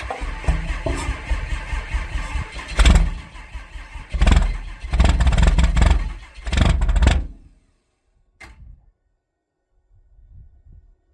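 6.7 Cummins inline-six turbodiesel being cranked over on a cold start, with several uneven surges, stopping abruptly about seven and a half seconds in. A short faint sound follows about a second later.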